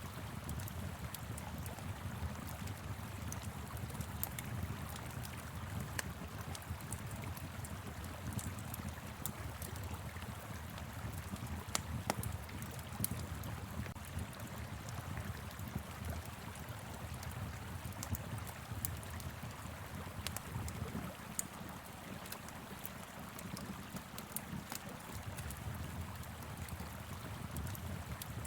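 Steady low rush of a flowing river, with the crackle and scattered sharp pops of a wood fire over it.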